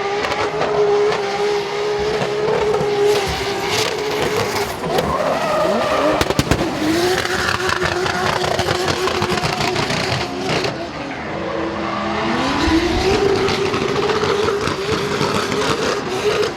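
Toyota Supra Mk4's 2JZ inline-six held at high revs while drifting, its pitch dropping and climbing back a couple of times, with a quick burst of pops about six seconds in. Tyres squeal under the slide.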